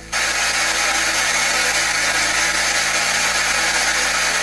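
Spirit box (SBox) sweeping through radio stations, giving a steady, loud hiss of radio static with a brief dropout right at the start.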